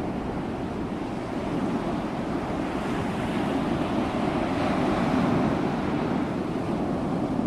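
Ocean waves washing onto a shore, a steady surf wash that swells a little louder midway.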